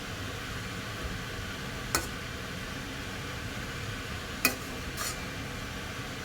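Fried rice sizzling steadily in a pan as it is stirred, with a spatula clacking against the pan three times: once about two seconds in, then twice close together near the end.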